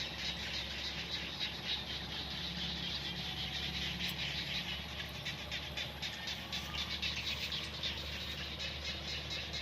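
Frogs calling in a chorus from flooded paddy fields, a dense, rapid pulsing of many calls over a low steady hum.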